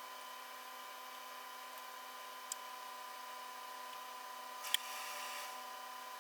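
Faint steady electrical hum with two short light clicks, about two and a half seconds in and again near the end.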